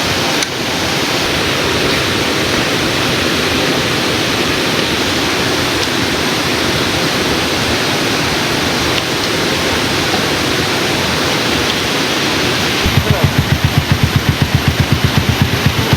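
River water rushing steadily. Near the end a low, evenly pulsing beat starts over it.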